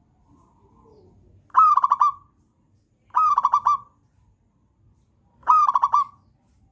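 Zebra dove (perkutut) singing: three loud phrases of rapid stuttering coos, each a short note followed by a quick run of pulses, about a second and a half apart. A fainter, softer coo comes before the first phrase.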